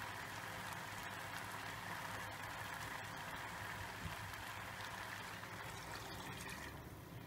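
Rice, pork and carrots frying in pork fat in an aluminium kazan: a faint, steady sizzle with fine crackles. The sizzle dies down near the end as water starts being poured in.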